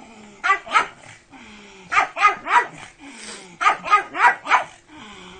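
Pug barking in quick runs: two barks, then three, then four, with short pauses between the runs.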